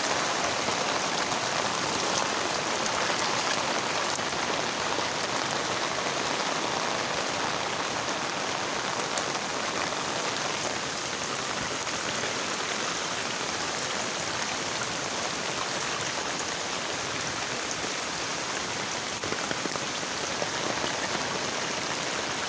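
Heavy rain pouring down steadily: a dense, even hiss of rain on surfaces.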